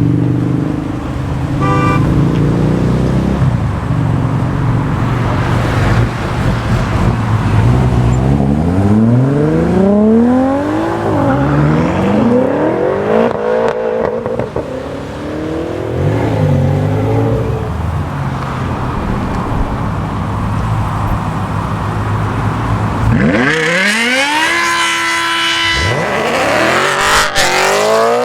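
Modified BMW M cars accelerating hard past one after another, engines revving up through the gears with a climb and drop in pitch at each upshift. The loudest pull comes near the end, with a high, rising engine note.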